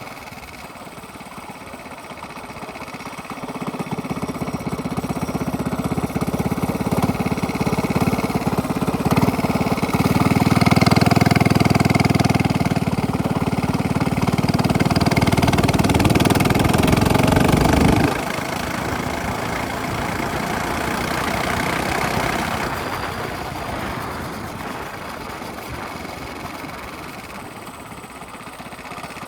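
Minibike engine with a straight-pipe exhaust running. It gets louder from about four seconds in and holds at its loudest, then drops off abruptly about eighteen seconds in and fades gradually toward the end.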